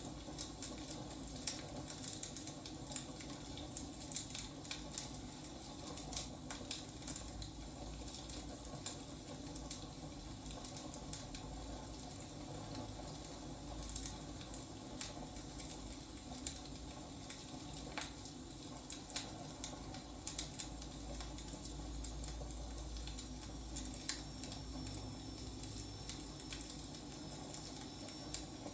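Wood fire crackling: irregular sharp pops and snaps over a steady low rush of flames, with a faint thin high whistle near the end.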